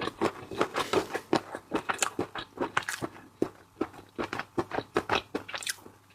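Close-miked eating of raw shellfish: rapid wet clicks and crunches of chewing and shell handling, several a second.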